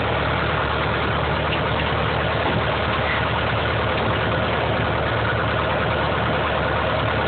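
Cessna 150's four-cylinder piston engine idling steadily with an even, unchanging note, running on a freshly changed engine.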